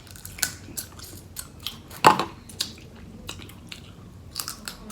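Close-up eating sounds of seafood being chewed: wet chewing with many short crackles and clicks, and one louder snap about two seconds in.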